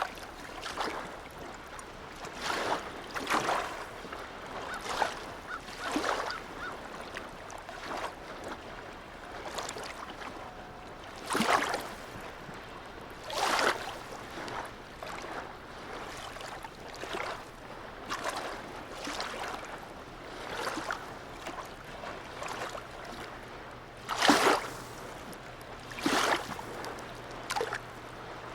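Small sea waves lapping and splashing in a harbour, coming irregularly every second or two, with a few louder slaps. A faint low steady hum joins about halfway through.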